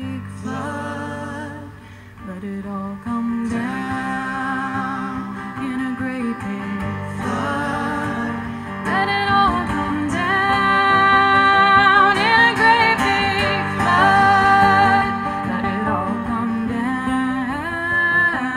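Live acoustic folk band: a female voice singing a sustained, wavering melody without clear words over acoustic guitar, growing louder about halfway through.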